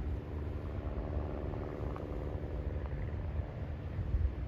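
A steady low rumble with a faint, even motor-like hum.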